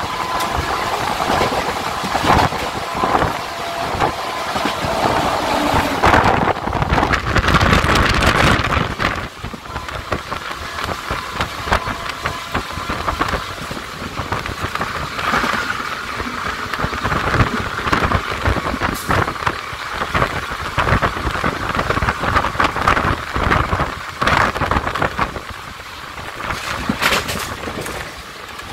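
Passenger train running at speed, heard from its open door: rumble of wheels and dense clatter over rail joints with wind buffeting, as another train and then a line of freight wagons pass close alongside on the next track. A thin high wheel squeal sounds in the first few seconds.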